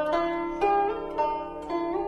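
Background music: a slow melody of plucked zither notes, several bending or sliding in pitch, in a traditional Chinese style.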